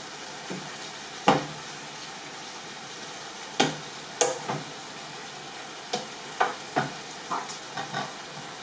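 Chicken tikka pieces sizzling in a hot pan with a steady hiss, while a utensil knocks against the pan about nine times at uneven intervals as the pieces are moved toward the centre.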